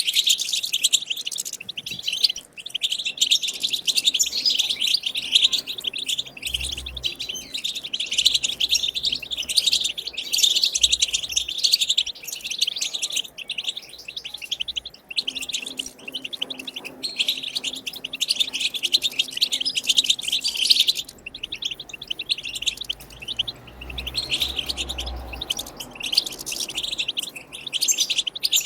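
European goldfinch singing its twittering song: a fast, continuous stream of chirps and trills with only brief pauses.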